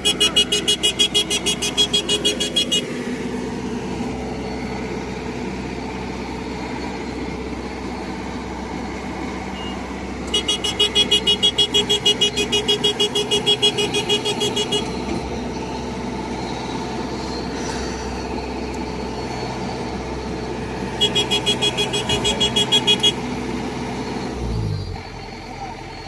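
Yanmar combine harvester running with a steady engine drone. A rapid high-pitched electronic beeping sounds in three spells, at the start, around the middle and a little before the end. Near the end the engine tone drops away.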